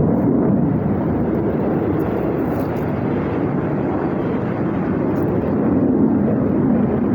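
Airplane engine noise from an aircraft flying at an air show: a loud, steady rumble that swells somewhat toward the end.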